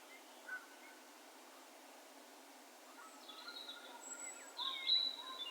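Several birds calling with echoes over a faint, steady background. There is a single short chirp about half a second in, then a cluster of short calls and whistles from about three seconds in, loudest near the end.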